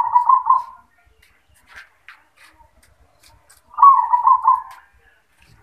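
Zebra dove (perkutut) singing: two short phrases of rapid bubbling coos, one right at the start and another nearly four seconds in.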